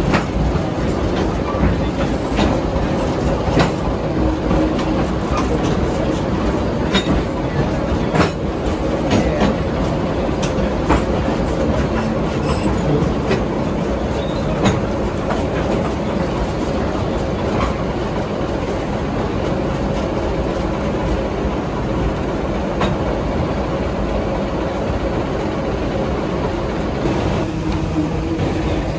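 Train in motion heard from an open-air car behind a General Electric diesel switcher: a steady rolling rumble of locomotive and wheels, with irregular sharp clicks as the wheels cross rail joints.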